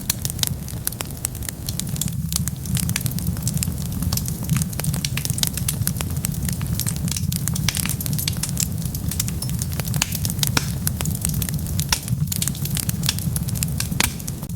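Wood fire crackling: a dense, irregular run of sharp pops and snaps over a steady low rumble.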